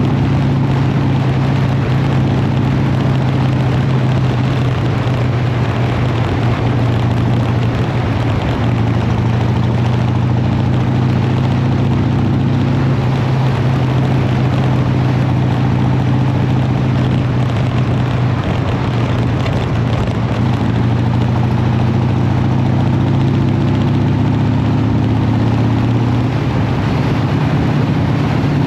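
Harley-Davidson motorcycle's V-twin engine running steadily while riding, over a constant rush of noise. The engine note drops slightly about nine seconds in and rises again near the end.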